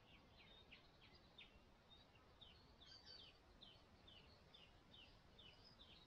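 Faint bird calls: a series of short, high notes, each falling in pitch, about two a second, with a short pause about a second and a half in.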